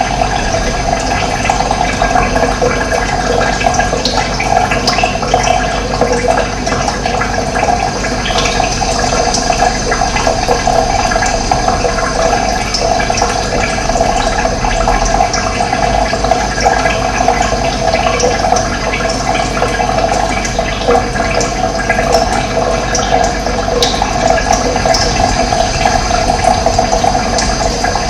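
Running water flowing steadily, with a few brief high chirps from birds.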